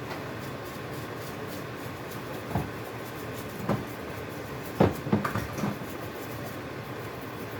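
A few short knocks and clunks of canned goods being shifted about in a kitchen cupboard, the loudest cluster about five seconds in, over a steady background hum.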